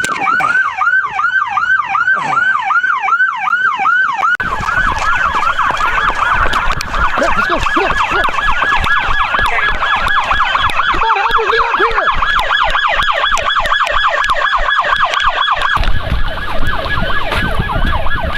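Police car siren in a fast yelp, a rapid run of falling sweeps several times a second. About four seconds in, loud engine and road noise from a moving cruiser comes in under it. Near the end the siren cuts off, leaving the road noise.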